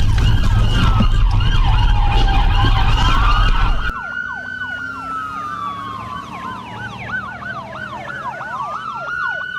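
Several police sirens sounding at once: a slow wail gliding up and down over fast repeated yelps. A loud low rumble runs under them and cuts off about four seconds in, leaving the sirens on their own.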